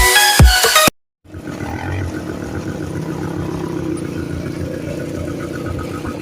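Electronic dance music that cuts off about a second in, then after a brief silence a quad bike's engine running steadily, with a low rumble and a fast, even ticking.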